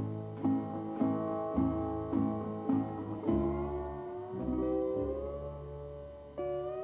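Guitar music: plucked notes about every half second, some of them sliding in pitch.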